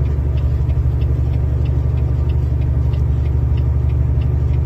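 Semi-truck diesel engine running steadily with a deep low rumble, heard from inside the cab, with faint light ticking about three times a second over it.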